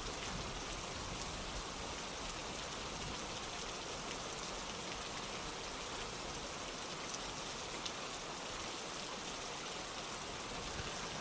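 Steady rainfall: an even hiss of rain with faint scattered drops.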